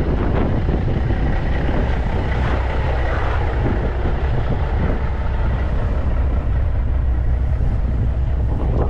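Heavy farm machinery running steadily: a deep, continuous rumble with dense mechanical noise over it.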